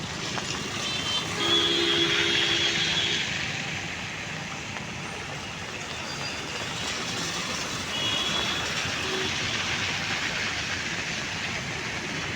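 Street traffic noise rising and falling as vehicles pass, with a vehicle horn sounding for nearly two seconds about a second and a half in. Short horn toots follow later.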